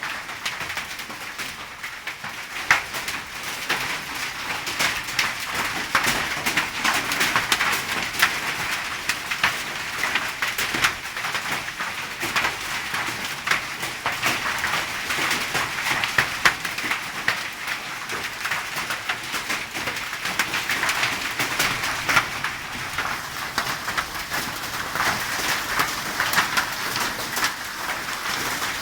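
Hail and rain pelting down: a steady hiss thick with irregular sharp clicks of hailstones striking.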